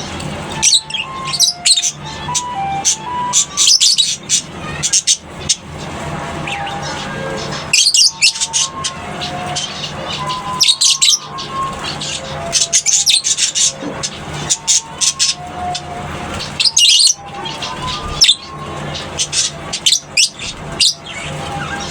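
Lovebirds chirping and squawking in many short, shrill bursts over background music with a simple note-by-note melody.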